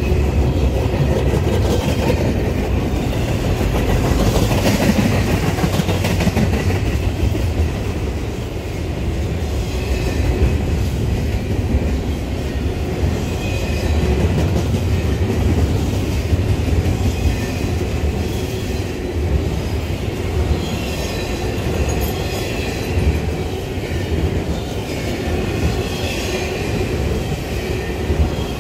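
A train rolling past, its wheels rumbling steadily on the rails.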